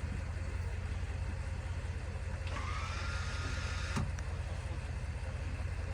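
A vehicle engine runs with a steady low hum. About two and a half seconds in, a small electric motor whines with a slightly rising pitch for about a second and a half, then stops with a sharp click.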